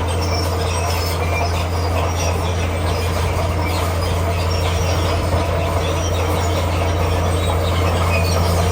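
Komatsu D41P crawler bulldozer running steadily with a strong low engine hum, its steel tracks giving short, high-pitched squeals as it moves over rock.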